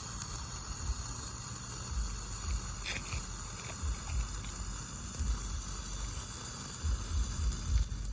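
Sparkler burning with a steady high hiss and scattered small crackling pops, with irregular low rumbling on the microphone that grows near the end.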